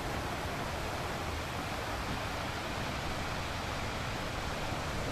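Ocean surf breaking on a beach, heard as a steady, even wash of noise with a low rumble underneath.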